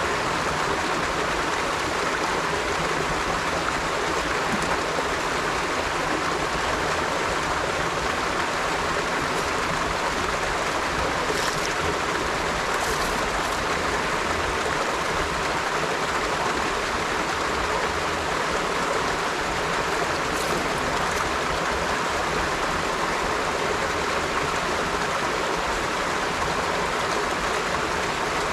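River water flowing over rocks in a steady, even rush, with a few faint brief splashes standing out now and then.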